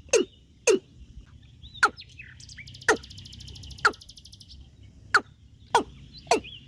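A bird calling over and over with short, sharp notes that drop in pitch, about two a second, thinning out mid-way, with a rapid buzzing trill from another creature for a couple of seconds in the middle.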